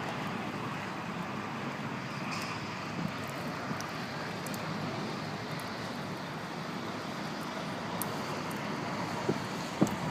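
Steady rushing city background noise during a snowstorm, wind and distant traffic blended into one even hiss, with a few faint clicks and a louder knock just before the end.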